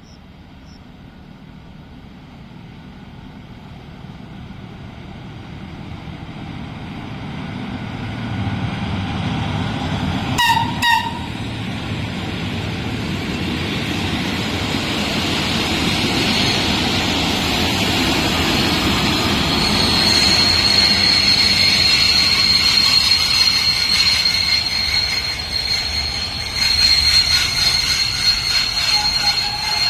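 FS E.656 electric locomotive and its train approaching, the rolling noise growing steadily louder, with two short horn toots about a third of the way in. From about two-thirds in, a steady high squeal of wheels and brakes comes as the train slows into the station.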